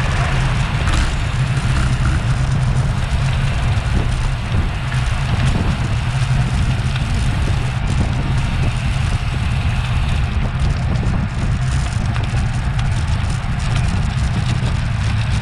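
Wind rushing over an action camera's microphone on a bicycle at racing speed: a steady, loud low rumble with hiss above it.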